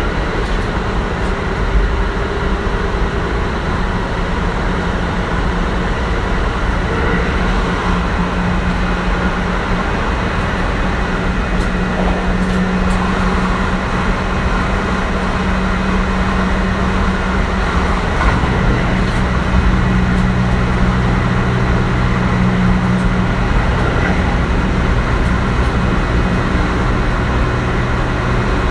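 Running noise of a Kintetsu 1420 series electric train with Mitsubishi GTO-VVVF traction, heard from inside the carriage: steady rumble of wheels on rail with a low motor hum that steps down in pitch about two-thirds of the way through.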